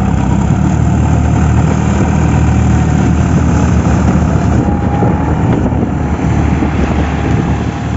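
Tractor diesel engine running steadily, a dense low drone with a faint whine above it.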